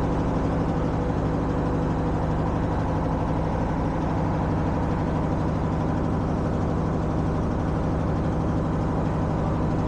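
Motorbike engine running at a steady speed, heard close up from the moving bike, with an even, unchanging pitch.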